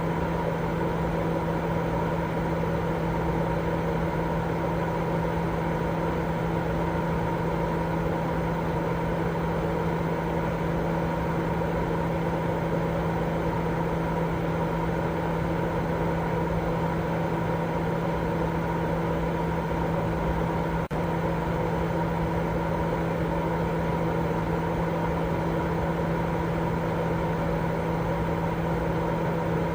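Continuous white-noise sleep sound: a steady, even rushing noise with a constant hum mixed in, broken by one tiny dropout about two-thirds of the way through.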